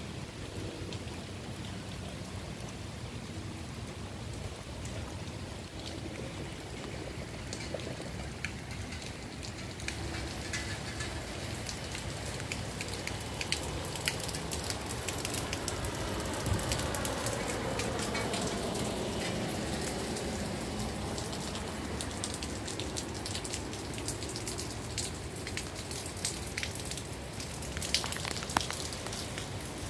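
Steady rain falling on wet pavement, with scattered small drop ticks. Around the middle, tyre noise from a car on the wet road swells and fades as it passes.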